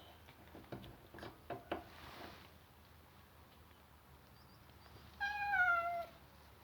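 A domestic cat gives one loud meow near the end, falling slightly in pitch. Before it, in the first couple of seconds, there are a few light taps.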